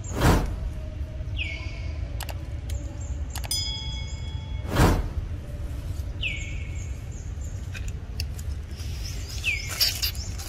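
Birds calling: a few quick downward-sweeping chirps over a steady low rumble. There are two loud sharp thumps, one right at the start and one about five seconds in, and a brief ringing tone about three and a half seconds in.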